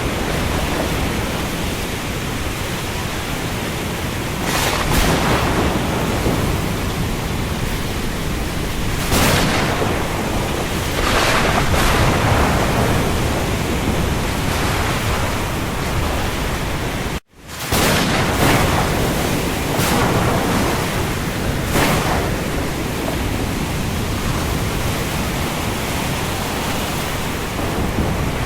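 Steady rain falling on the open sea: a dense, even hiss that swells every few seconds. The sound cuts out for an instant about seventeen seconds in.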